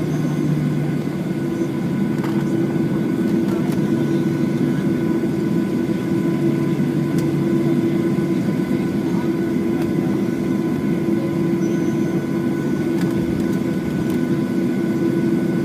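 Boeing 737-8's CFM LEAP-1B jet engines heard from inside the cabin: a steady hum with several constant tones layered over it, holding level.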